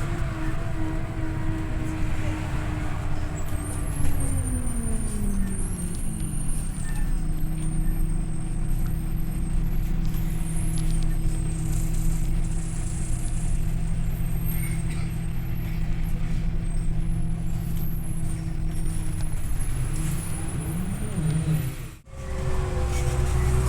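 Scania OmniLink I city bus running, heard on board: the engine note falls over a couple of seconds as the bus eases off, holds steady, then climbs again near the end. Faint high-pitched squeals come and go over the engine, and the sound drops out briefly just before the end.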